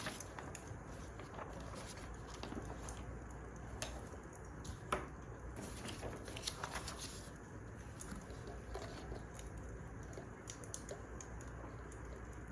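Wood fire crackling: irregular small pops and snaps over a steady low rumble, with sharper snaps at the start and about five seconds in.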